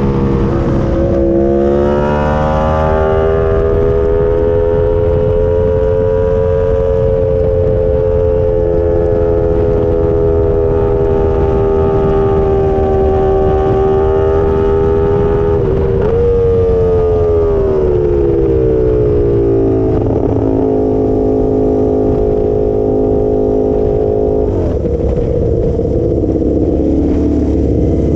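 Ducati superbike engine heard from on board the bike, holding a steady high note for a long stretch. About two-thirds of the way in it dips sharply and winds down over a few seconds to a lower steady note, then drops again to a rougher, lower running sound near the end, over a constant low rush of wind and road noise.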